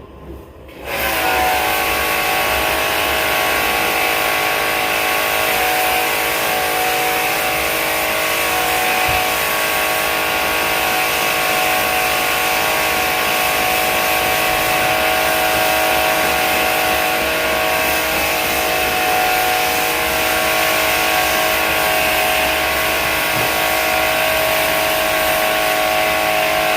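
A motor-driven machine switches on about a second in and runs steadily and loudly: a whine of several steady tones over a strong hiss.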